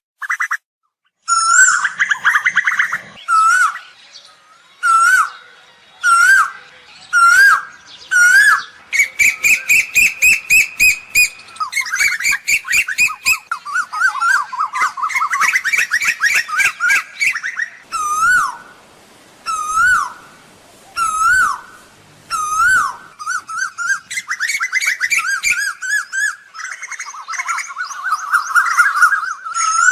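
Asian koel calling: loud short whistles that sweep upward, repeated every second or so, alternating with fast runs of rapid notes that rise and fall in pitch. The recording is a call meant to lure and train koels.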